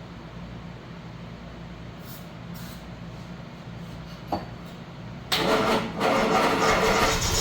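Triumph TR250's straight-six engine being cranked on the starter motor, starting suddenly about five seconds in after a low hum and a single click, on its first start after the restoration.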